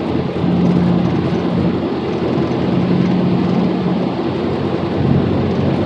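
Steady engine and road noise inside a moving car's cabin, with a low hum that fades in and out.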